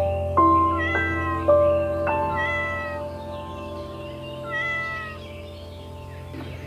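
A kitten meowing three times in short, downward-falling calls over background music.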